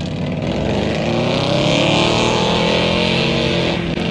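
Truck engine revving hard and held at high revs, its pitch swelling and easing, with a steady hiss over it, as a truck is whipped around at a truck meet.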